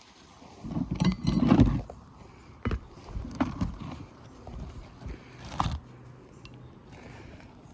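Scraping and knocking of hand work on an asphalt shingle roof. A rough scraping stretch comes about a second in, followed by sharp single knocks, one near the middle and one a few seconds later.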